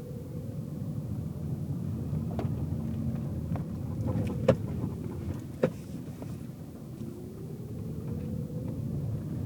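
Car driving, heard from inside the cabin: a steady road and tyre rumble with an engine whine that rises and falls. A few sharp knocks come through, the two loudest about halfway through.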